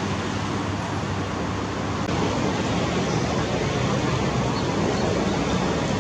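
Mil Mi-8MTV helicopter running, a steady mix of rotor chop and twin-turboshaft engine noise, getting a little louder about two seconds in.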